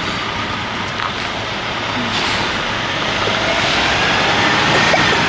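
Semi truck running as it slowly backs in, its steady engine noise growing louder and brighter about two seconds in.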